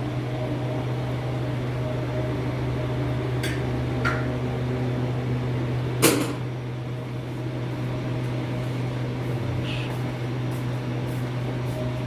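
Steady low electrical hum of café appliances, with a couple of faint clicks and one sharp knock about six seconds in.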